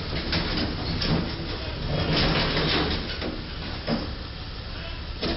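Street traffic with a steady low vehicle rumble, broken by several scraping, clattering bursts, the longest about two seconds in, and a sharp knock near the end.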